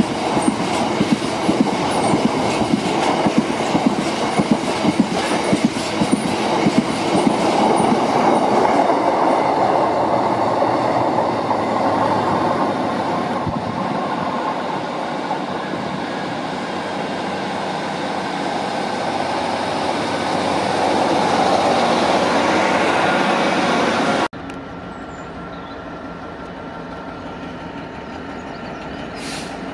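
Freight train wagons rolling past at close range, their wheels clattering rhythmically over rail joints. Later, after a sudden change to a quieter sound, a diesel freight locomotive is heard approaching.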